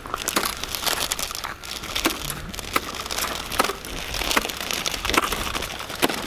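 Snow and ice crunching: a string of sharp crunches, roughly one to two a second, on a salted icy sidewalk.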